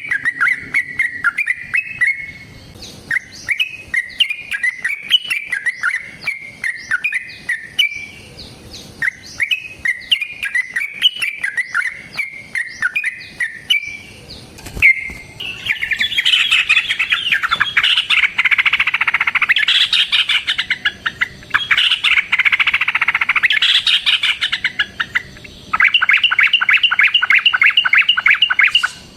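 Yellow-vented bulbul (trucukan) singing: short, bubbly chirped phrases at first, then, about halfway in, long, loud, fast chattering runs. Near the end comes a very even, rapid trill.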